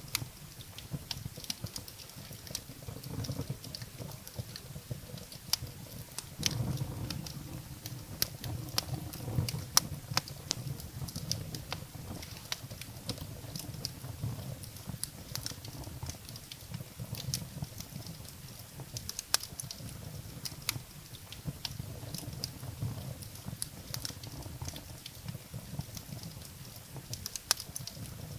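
Wood fire burning in a fireplace: irregular sharp crackles and pops of burning firewood over a low rumble of the flames.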